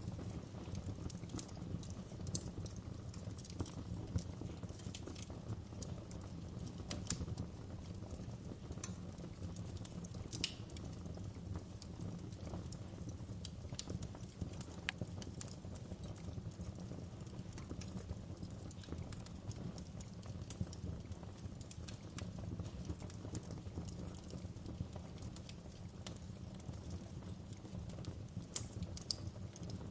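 Wood fire crackling steadily, with irregular sharp pops and snaps over a low, even rumble of burning.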